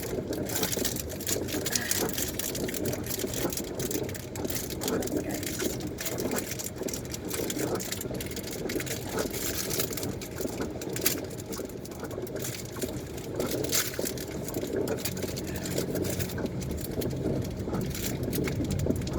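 Irregular crinkling, clicking and scraping of plastic chocolate packaging as it is pried open with a car key, over a steady low car-cabin hum.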